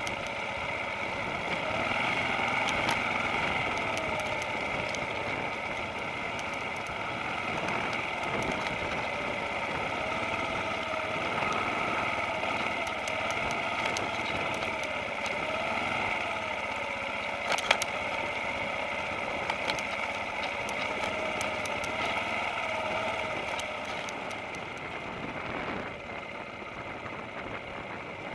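Off-road motorcycle engine running at low revs, its pitch wavering up and down as the bike picks its way down a rocky trail. Scattered clicks and knocks from the bike over the stones, with one louder knock about two-thirds of the way through.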